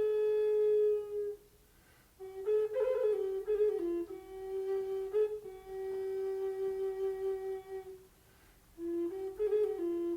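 Slow, meditative flute melody of long held notes with short ornamented turns between them, pausing briefly twice.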